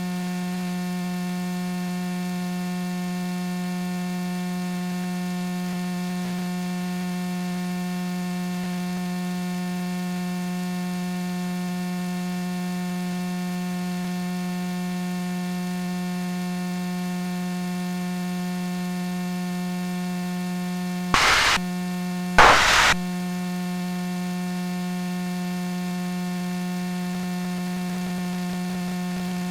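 Steady electrical hum with a stack of even overtones on the cockpit audio feed, unchanging in level. Two short bursts of noise break in about 21 and 22.5 seconds in.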